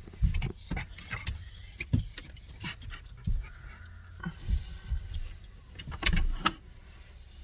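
Metal jingling and clinking, irregular, mixed with knocks and low bumps.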